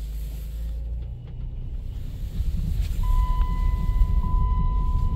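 Minivan engine running as the van is driven slowly, a low rumble that grows louder about halfway through. A steady high electronic tone starts about three seconds in.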